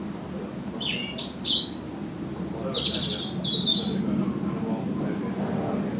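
A small bird chirping: a quick run of short, high notes about a second in and another around three seconds in, over a steady low background rumble.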